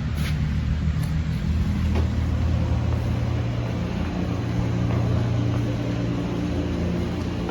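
Steady low mechanical hum with a hiss over it, from running machinery.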